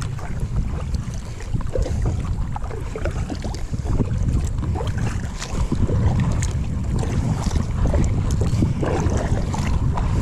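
Wind rumbling on the microphone over water lapping at a kayak, with scattered small clicks.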